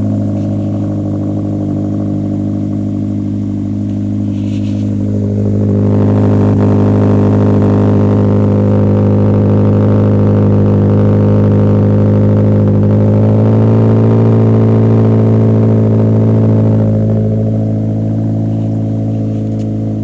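Subaru BRZ's flat-four engine running at cold-start fast idle through a freshly fitted axle-back exhaust, a steady low drone. It gets louder about six seconds in and eases back down near the end as the idle settles.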